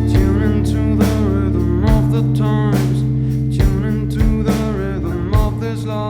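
A band playing a song live: guitar and a sustained bass line under a sung melody, with drum hits.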